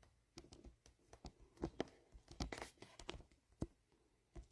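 Faint, irregular small clicks and taps of close handling noise, scattered through the quiet with no voice or music.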